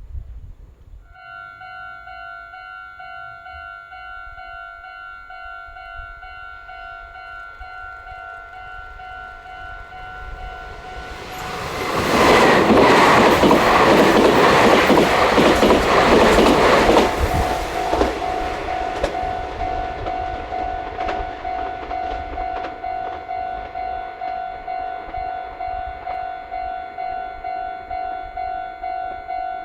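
Level-crossing warning bell ringing in a steady pulse of about two strikes a second. About eleven seconds in, a Meitetsu train passes through the crossing for about six seconds, loud, with its wheels clattering over the rail joints. The crossing bell keeps ringing after the train has gone.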